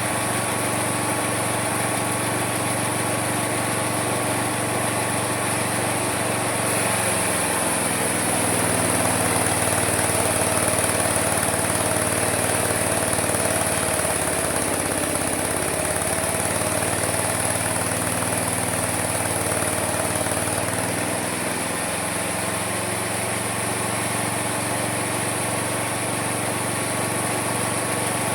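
Homemade mini sawmill running steadily. From about a quarter of the way in to about three quarters through, its motor's pitch sags and wavers and the sound gets a little louder as the blade works through a cut, then it settles back to a steady run.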